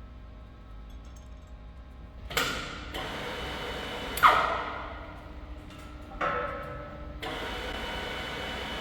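Three sharp clanks over a low workshop hum. They come a couple of seconds in, in the middle and near the end, and the middle one is the loudest, with a ringing tail that falls in pitch.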